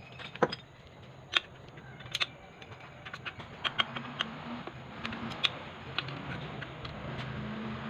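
Irregular sharp clicks and light taps from small parts and hand tools being handled on a workbench, a few louder ones near the start and coming more often after about three seconds.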